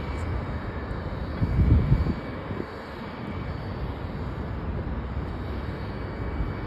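Jet airliner engines running, a steady rumble and rush of noise, with a louder low surge about one and a half to two seconds in.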